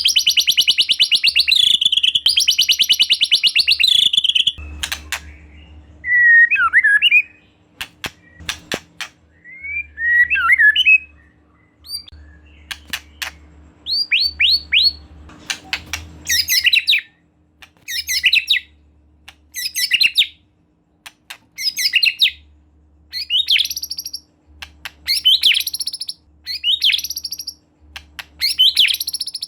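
White-rumped shama song. It opens with a loud, very rapid rattling trill for about four seconds, then scattered whistled notes and a run of quick falling whistles. From about halfway, a short loud phrase repeats roughly every second and a half.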